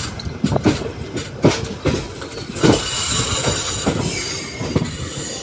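Railway carriage clattering over rail joints, with irregular heavy clunks and a steady high hiss of wheels on rail.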